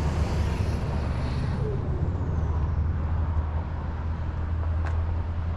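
Steady low vehicle rumble, with a faint high whine that falls in pitch over the first two seconds and a single click near the end.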